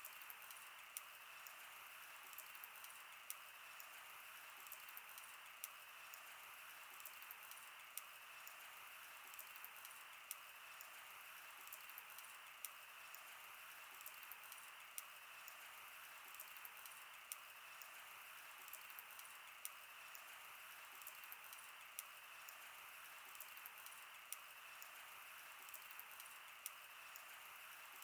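Wood fire burning: a faint steady hiss with many sharp crackles and pops at irregular intervals.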